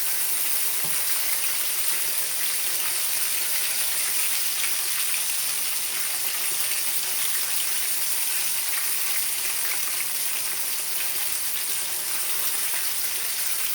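Chicken frying in hot oil in a skillet: a steady sizzle.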